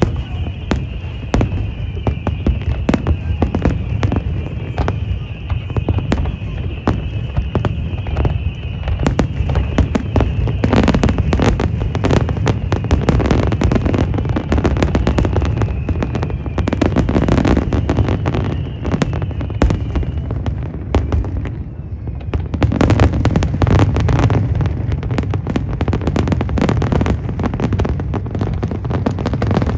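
Fireworks display: a dense, unbroken barrage of bangs and booms, heavier around ten seconds in and again a little past twenty. A steady high tone runs under the first two-thirds and fades out.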